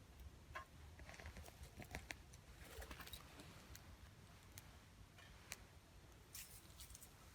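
Faint crackling of a small wood fire in a tabletop fire pit: scattered irregular pops and snaps over a low background hum.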